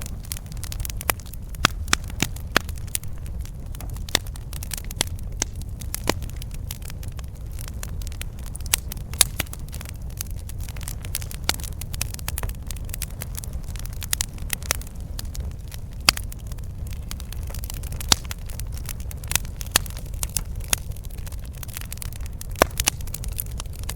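Campfire burning: wood crackling and popping at irregular intervals, over a steady low rumble of flames.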